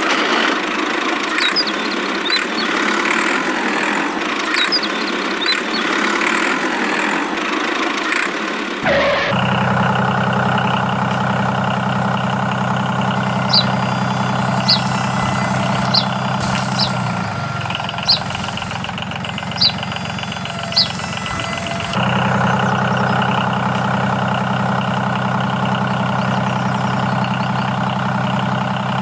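Diesel tractor engine idling steadily. For the first nine seconds it sounds thin and mid-pitched, then it cuts abruptly to a deeper, fuller idle, with about six sharp clicks between roughly 13 and 21 seconds.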